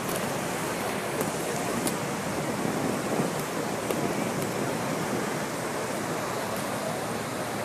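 Steady roar of the Horseshoe Falls at Niagara and its churning water, heard from a tour boat close to the falls.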